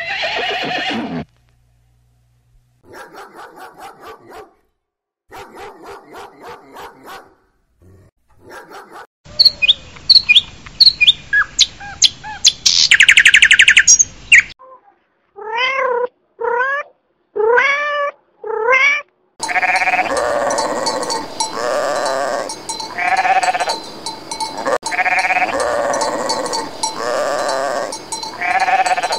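A string of animal calls. A horse's whinny trails off at the start, and some short pulsed calls follow. In the middle, budgerigars chatter with sharp chirps and a fast trill. Through the last third, sheep bleat over and over.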